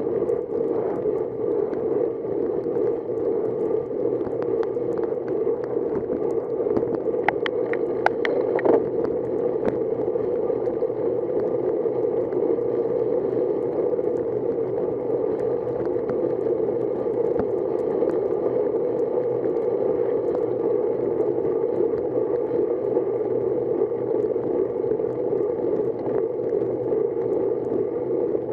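Steady rushing noise of a bicycle ride on a wet road, wind and tyre noise on the camera's microphone, with a short run of sharp clicks or rattles about seven to nine seconds in.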